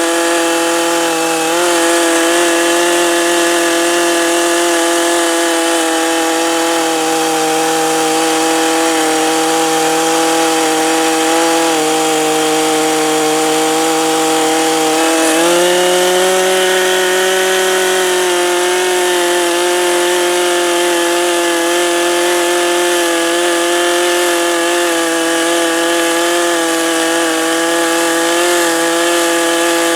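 Two-stroke chainsaw running at high speed, cutting into a fallen oak limb, its engine pitch shifting slightly as the load changes and rising for a few seconds about halfway through before settling again.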